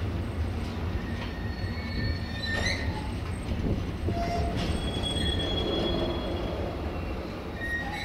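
Loaded container freight wagons rolling past at close range: a steady low rumble of wheels on rail, with several short high-pitched metallic squeals from the running gear.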